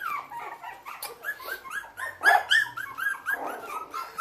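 Five-week-old Havanese puppies whimpering and yipping in a rapid string of short, high squeaks, several a second, loudest about two seconds in.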